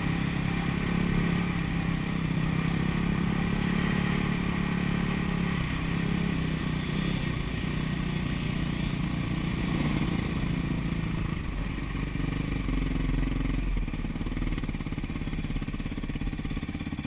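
Motocross bike engine running, its pitch holding fairly steady with small rises and falls in throttle.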